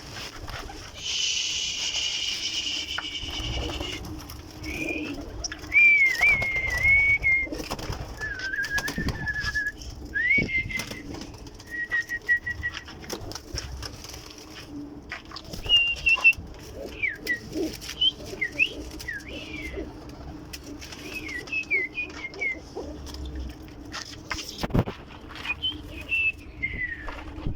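Domestic pigeons in a loft, cooing and flapping their wings, with clicks and short runs of high, whistle-like chirps.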